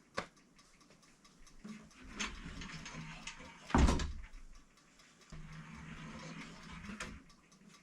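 Bi-fold closet door being worked on its track: a rubbing slide that ends in a thump about four seconds in, then another slide that finishes with a click.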